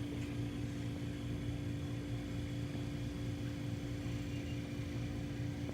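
Steady background machine hum: a constant low tone over a low rumble, unchanging throughout.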